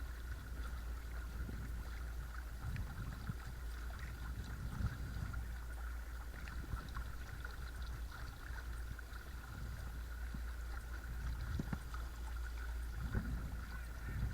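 Watersnake T24 12-volt electric trolling motor pushing a kayak along, a steady thin whine over a low rumble, with soft sloshing of water against the hull.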